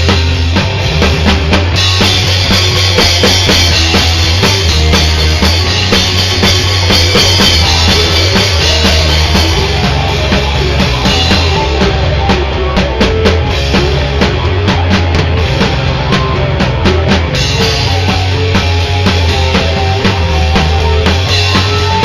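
Rock band playing, with a full drum kit and bass.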